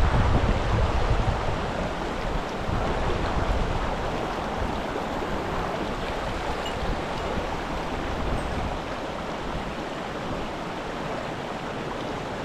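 Steady rush of river water, with wind buffeting the microphone in the first second or two before it eases.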